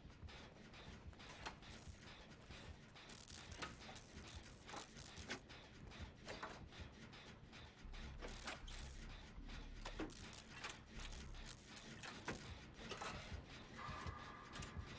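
Faint, irregular clicking and clattering, like a small mechanism being handled or worked.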